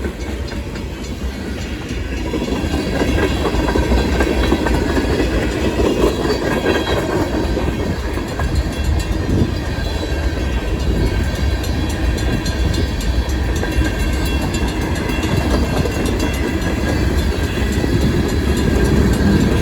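CSX freight train's cars rolling past, a steady rumble of steel wheels on rail with clickety-clack from the rail joints and a faint high whine over it.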